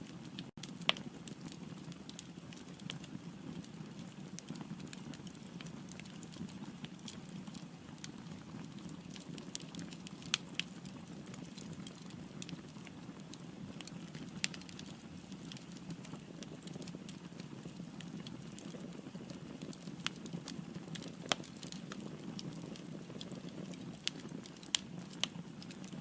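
Firewood burning in a fireplace: a steady low rumble with irregular sharp crackles and pops, a few louder than the rest.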